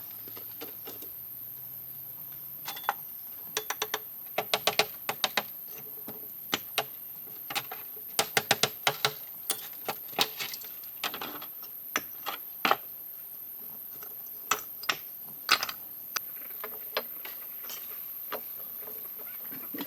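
A run of sharp, irregular clicks and taps of small hard objects, some in quick clusters.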